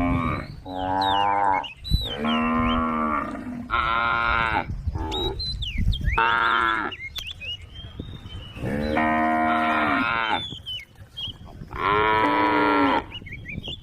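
A cow mooing over and over: about eight calls in quick succession, some short and some held for more than a second.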